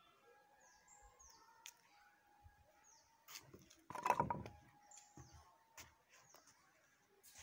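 Birds chirping: short, high, falling chirps repeated over a faint steady background. About four seconds in, one brief louder sound stands out.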